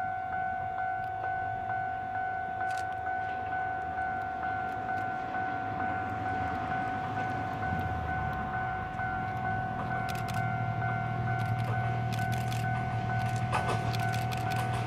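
A level-crossing warning bell dings steadily about three times a second while a KiHa 28 and KiHa 52 pair of diesel railcars approaches. The engine rumble grows from about halfway through, and sharp wheel clicks over rail joints come in near the end as the train draws close.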